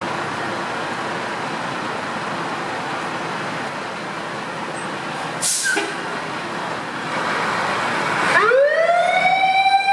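Fire engine running with a steady noise, with one short hiss about five and a half seconds in. Near the end its siren starts up, rising quickly in pitch and then holding a high wail.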